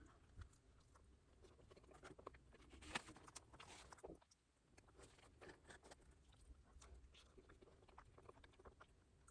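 Close-miked eating sounds: chewing with many small, soft wet clicks of mouth and food. About three seconds in there is a louder, noisier stretch lasting about a second, then a brief lull before the chewing resumes.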